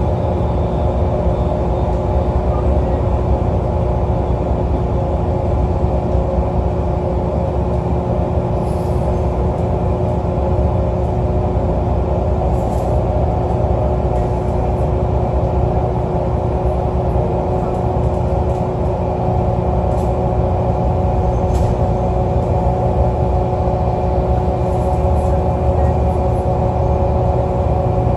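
Alexander Dennis Enviro 500 double-decker bus running, a steady engine drone with a high, even whine held over it: the weird engine sound of this bus. A few faint clicks come through now and then.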